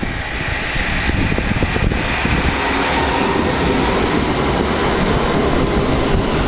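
Gothenburg street tram running along its rails: a steady rumble of wheels and motors that builds over the first second or two and then holds, with a faint high whine.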